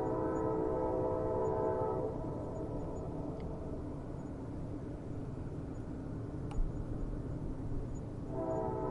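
Train horn holding a long blast that cuts off about two seconds in, over a steady low rail rumble. A single sharp click sounds a little after six seconds, and the horn blows again near the end.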